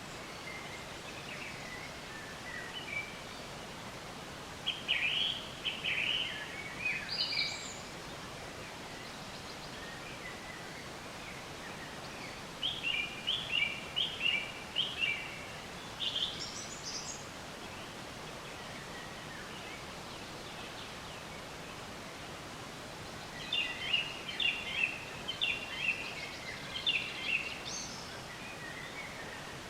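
A songbird singing three short phrases of quick chirping notes, roughly ten seconds apart, over a steady background hiss.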